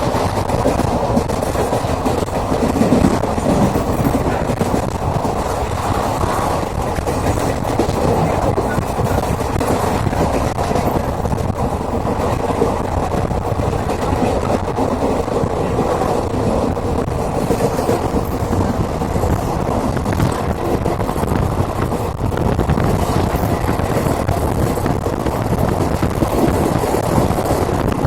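Moving train running steadily: a continuous rumble of the wheels on the rails, even in level throughout.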